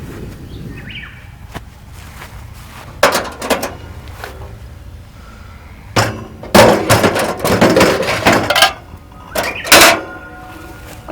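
Hard objects being handled and set down: a couple of sharp knocks, then a run of loud clattering and clinking, like metal and glassware knocking together, with one more loud clatter near the end followed by a faint ring.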